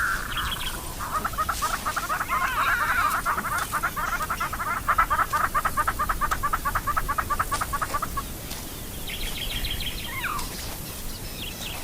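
A bird giving a long, rapid, cackling call of quickly repeated notes for about seven seconds, with shorter bird calls and chirps before and after it.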